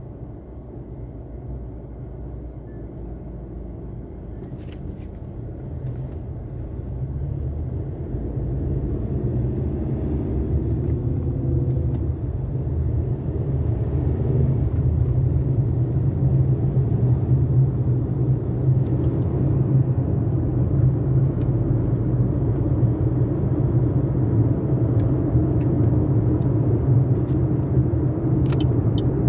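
Low, steady vehicle rumble that grows gradually louder through the stretch, with faint evenly spaced ticks, about three a second, coming in near the end.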